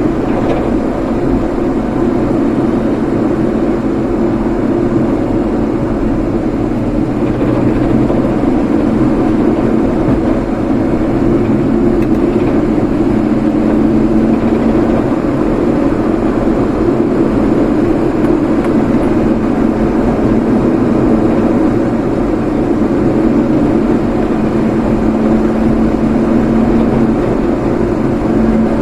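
Steady vehicle driving noise: engine drone and road rumble at an even speed.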